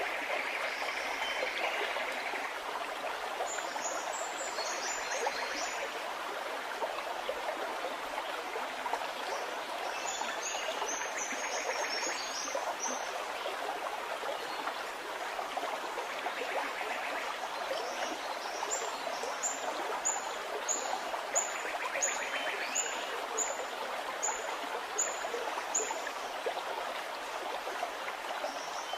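A small stream running and gurgling steadily, with a bird singing short, high notes in three bouts; the last bout is a run of about a dozen evenly spaced notes.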